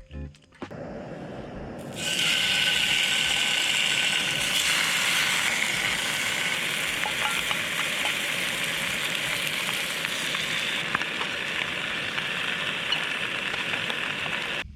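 Food sizzling in a hot pan: a steady frying hiss that jumps louder about two seconds in, with occasional small pops.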